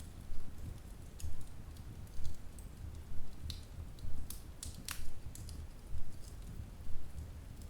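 Wood fire in a fireplace crackling, with scattered sharp pops over a low rumble from the flames that swells about once a second.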